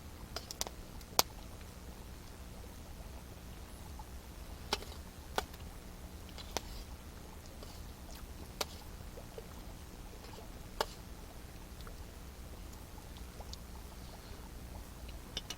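Wood fire crackling: a scattering of sharp, irregular pops over a steady low rumble, the loudest pop about a second in.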